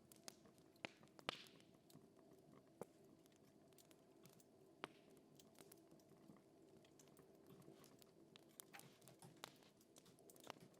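Faint crackling of a fire: scattered sharp pops at irregular intervals, the loudest about a second in, over a low steady rumble.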